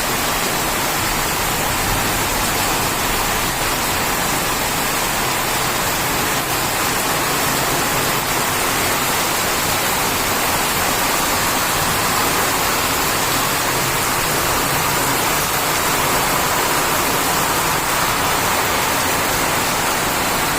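Heavy rain falling steadily, a dense even hiss of rainfall.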